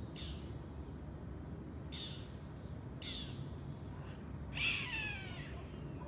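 Bird calls: a few short, harsh calls about a second apart, then a louder, longer call about four and a half seconds in that falls in pitch, over a low steady background rumble.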